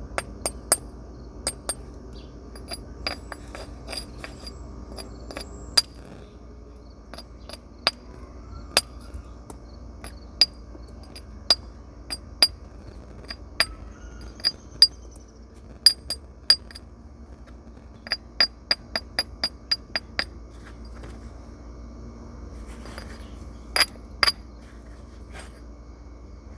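Flint being knapped with natural tools: sharp, ringing clicks of percussion strikes on the stone at irregular intervals, with a quick run of about eight light taps around two-thirds of the way through.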